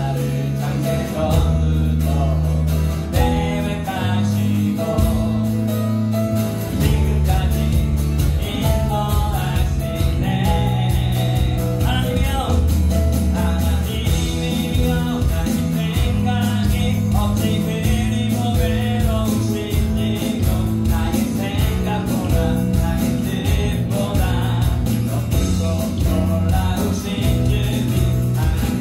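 Live worship band playing a praise song with singing: acoustic guitar, keyboard, bass guitar and electronic drums keeping a steady beat under the voice.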